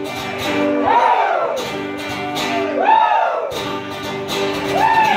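A live acoustic band plays an instrumental passage of a country-style song: acoustic guitars hold the chords while a lead phrase swoops up and back down about every two seconds.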